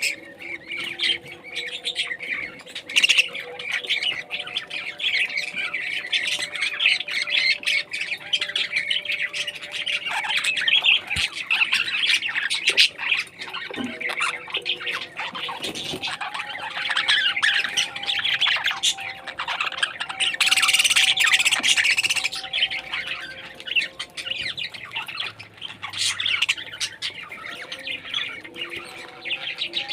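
Parrots chattering and squawking continuously, with many overlapping calls. One loud, harsh squawk lasts over a second at about two-thirds of the way through.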